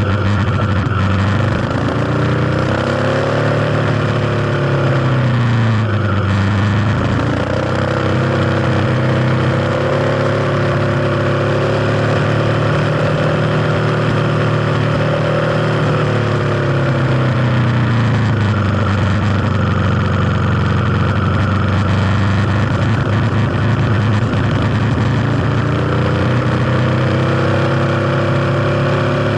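Kawasaki KLX250's single-cylinder four-stroke engine running on the move. Its pitch drops and climbs again several times as the throttle is eased off and opened.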